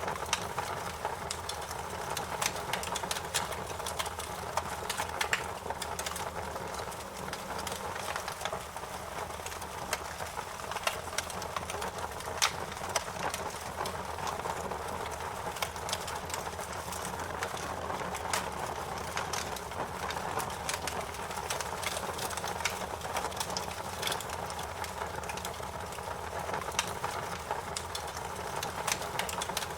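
Wood fire crackling: a steady hiss of burning with frequent sharp, irregular pops and snaps.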